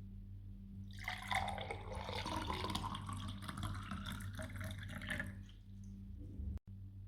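Water running and splashing for about four seconds, starting about a second in, over a steady low hum.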